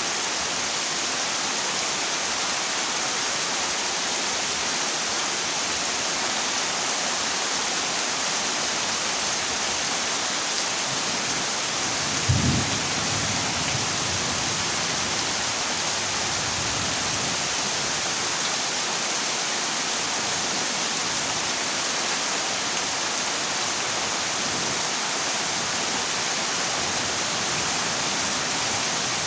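Heavy rain falling steadily on a corrugated zinc roof, an even hiss. About twelve seconds in, a single low thunderclap breaks through and rumbles away over a couple of seconds.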